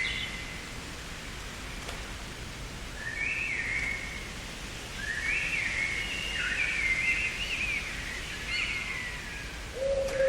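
Garden songbirds singing in short, sweeping phrases, one brief phrase a few seconds in and a longer run of phrases through the middle, over a steady background hiss.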